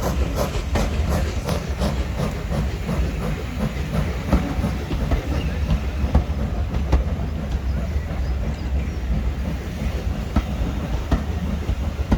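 GER Class Y14 (J15) 0-6-0 steam locomotive pulling away with its train. Its exhaust beats, about three a second, fade out in the first couple of seconds. After that the train rolls on with a low rumble and occasional clicks of wheels on the rails.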